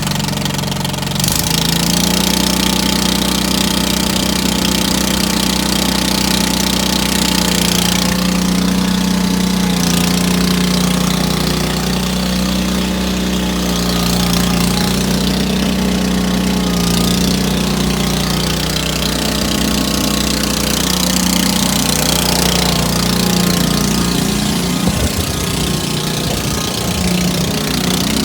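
John Deere 445 garden tractor's 22 hp liquid-cooled, fuel-injected Kawasaki V-twin engine running steadily, a constant even engine note.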